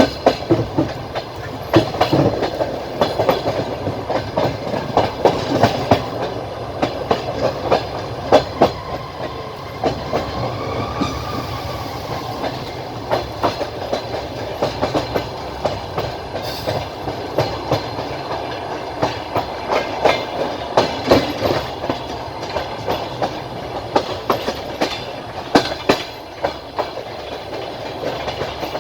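Train wheels clacking over rail joints and rolling steadily on the track, heard from a moving train by the window. The clacks come irregularly, and a faint whine rises and falls about ten seconds in.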